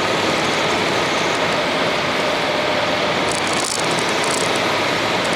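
Honda X-ADV's parallel-twin engine running while riding, under a steady rush of wind and road noise on the action camera.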